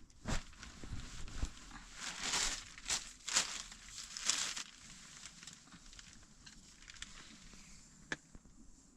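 Rustling and crinkling handling sounds, several bursts in the first half, then quieter, with a single sharp click about eight seconds in.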